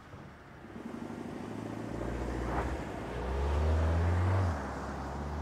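Volkswagen Tiguan SUV pulling away from a standstill and accelerating, its engine getting louder. The engine note drops back about four and a half seconds in.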